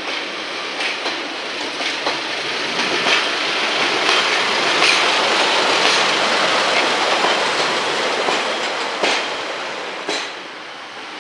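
A train passing along the platform line, its wheels clicking over rail joints, the sound swelling to a peak in the middle and fading away near the end.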